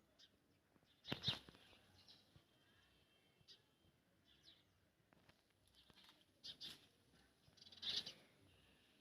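A few brief, faint bird chirps with near silence between them, about a second in and again in a cluster around six and a half to eight seconds in.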